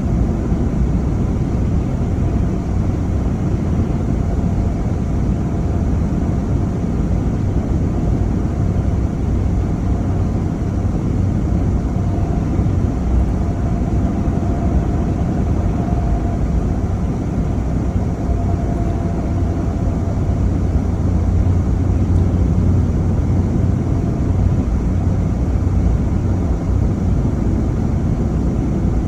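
Steady low rumble of a car on the road, engine and tyre noise together, with a faint steady whine through much of it.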